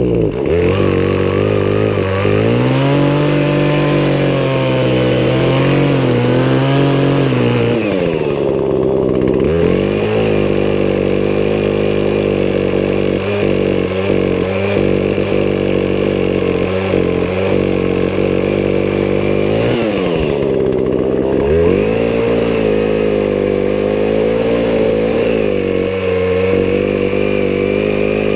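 Poulan Pro two-stroke gas chainsaw running at high revs, its engine pitch dropping sharply and climbing back three times: at the start, about nine seconds in and about twenty-one seconds in.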